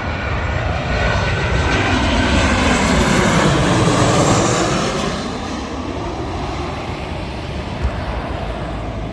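Ryanair Boeing 737 jet on its landing approach passing low overhead. Its engine noise swells to a peak about three to four seconds in and then eases off, with a hollow whoosh that sweeps down and back up in pitch as it goes over.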